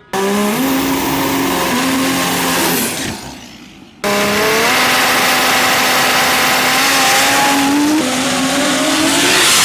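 Turbocharged diesel dragster engine at full power down the drag strip, heard in two clips cut together. The engine note holds steady with a few steps in pitch, and it is cut off sharply about four seconds in before starting again.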